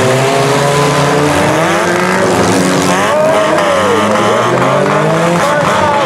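Several small demolition-derby cars' engines revving hard at once, their pitches rising and falling against each other as the cars push and ram one another. A few sharp knocks come near the end.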